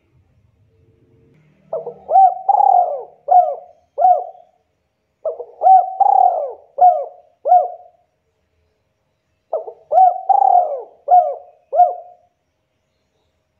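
Spotted dove (tekukur) cooing: three phrases of about five short coos each, a couple of seconds apart.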